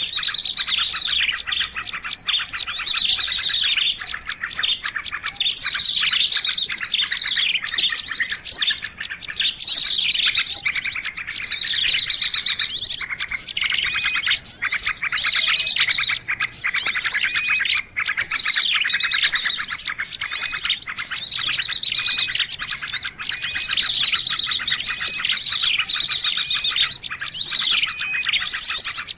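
A dense chorus of many small songbirds chirping and trilling at once: overlapping high, quick calls and rapid trills with no break. It is a bird-lure recording, played to draw small birds in for trapping.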